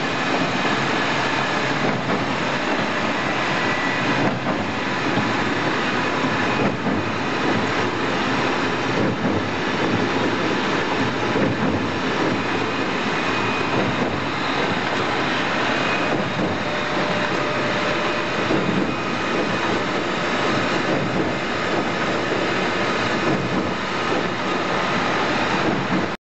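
Tornos SAS 16 multispindle automatic lathe running, a steady dense mechanical noise with a slight regular change about every two and a half seconds.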